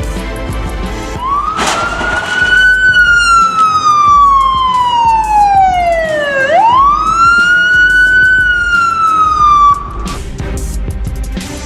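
An emergency-vehicle siren wailing. It rises, falls slowly over about five seconds, sweeps quickly back up and falls again, then cuts off about ten seconds in. Background music plays under it.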